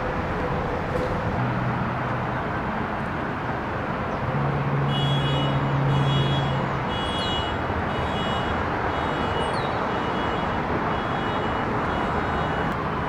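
Steady city traffic noise with a vehicle engine droning past. Through the middle, a high-pitched pulsing beep repeats about one and a half times a second.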